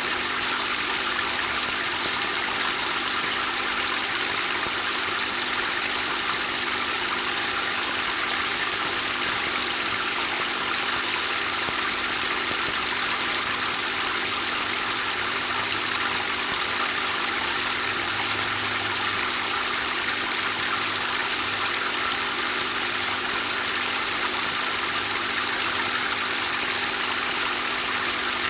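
Water running and splashing steadily in a garden water fountain, with a steady low hum underneath.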